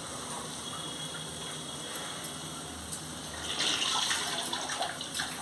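Chopped onions and green chillies sizzling in hot oil in a frying pan, a steady soft hiss that swells louder about three and a half seconds in, with a few light clicks near the end.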